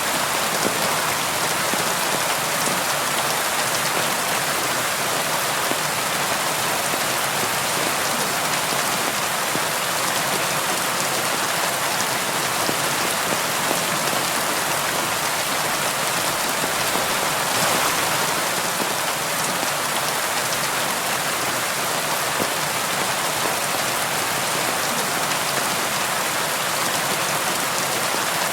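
Steady rain on a window: an even hiss of many drops, swelling slightly a little past halfway.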